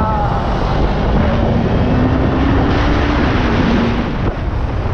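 Suzuki GSX250R's parallel-twin engine under way, its note rising from about a second in and dropping off near four seconds, under heavy wind noise on the microphone.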